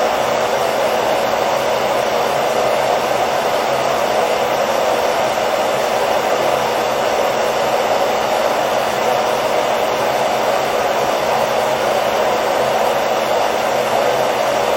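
Hair dryer running continuously at a constant setting: a steady, unchanging blowing whoosh with a faint motor hum underneath, used as white noise to lull a baby to sleep.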